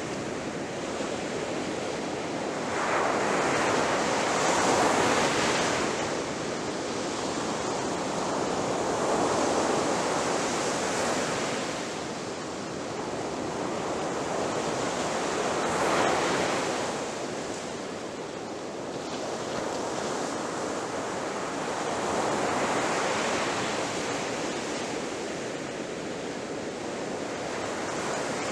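Ocean surf breaking on the shore: a continuous wash of waves that swells into a louder crash every five to seven seconds.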